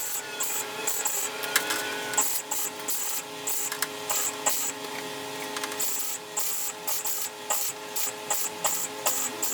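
Welder laying a run of short stitch welds on car body steel: crackling bursts of a fraction of a second each, separated by short pauses, repeating through the whole stretch.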